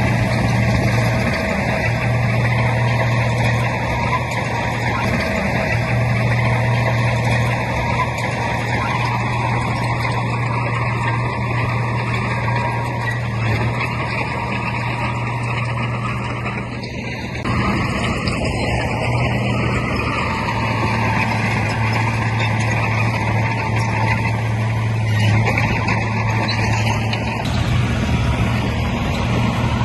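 Heavy diesel engine of earthmoving machinery running steadily under load, easing briefly a little past the middle.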